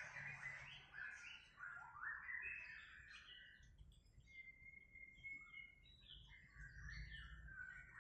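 Sooty-headed bulbul (kutilang) calling: a run of quick, short chirping notes stepping up and down, with one longer steady note in the middle.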